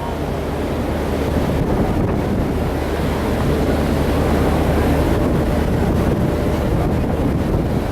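Wind buffeting the microphone over the rush of sea waves and foam, with a steady low engine drone from the ferry underneath.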